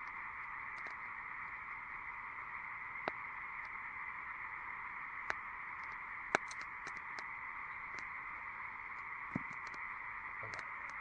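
Dense chorus of frogs calling from a bog, a steady unbroken trilling din, with a few sharp snaps scattered through, the loudest about six seconds in.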